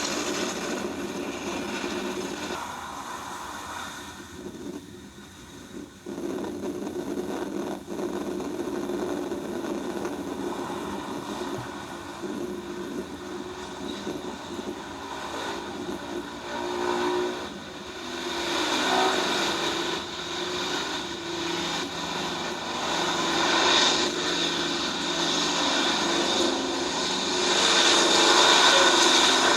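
Jet airliner engine noise, continuous and growing louder over the second half.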